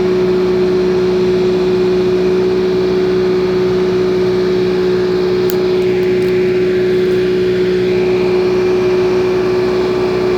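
A work truck's machinery running with a loud, steady drone held at one pitch, with a few faint clicks about halfway through.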